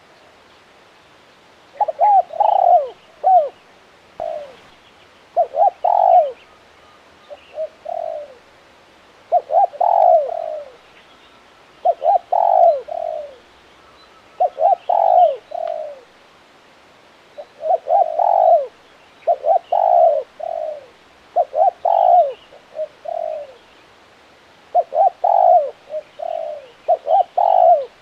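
Spotted dove cooing its song over and over, a phrase of several short, bending coo notes every couple of seconds.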